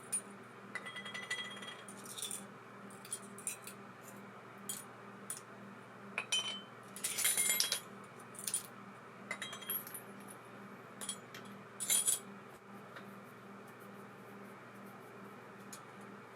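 Small metal parts of an ABU Ambassadeur 2500C baitcasting reel clinking and tapping as they are handled: irregular clicks, a few with a brief metallic ring, the busiest stretch around the middle, over a steady low hum.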